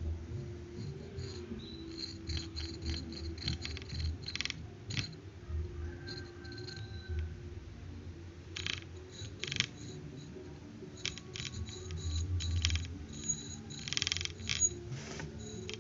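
Irregular small clicks, taps and scrapes of small parts being handled and worked on, over a low steady hum. The clicks come in clusters, busiest late on.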